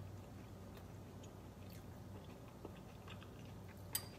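Faint chewing and small mouth sounds of a person eating a mouthful of stew, over a low steady hum. One sharp click comes a little before the end.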